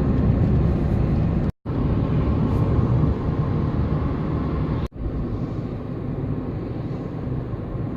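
Steady low rumble of a vehicle travelling, as heard from inside it, broken twice by abrupt cuts.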